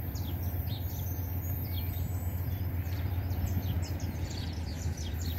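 Birds chirping with many short, quick calls, over a steady low rumble.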